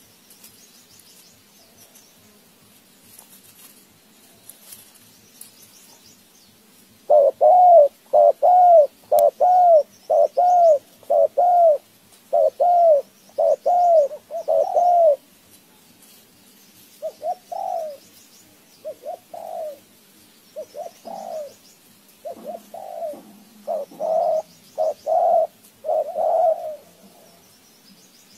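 A bird calling: a fast, even run of short, arched cooing notes, about two a second, starting about seven seconds in, then a looser, irregular series of similar notes. Faint high chirps of small birds sound in the background.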